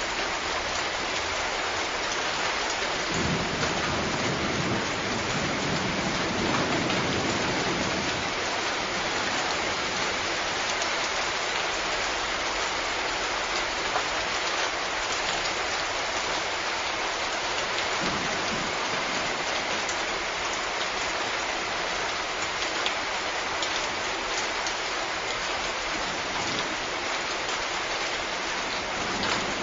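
Steady rain falling, an even dense hiss, with a low rumble swelling a few seconds in and fainter low rumbles later on.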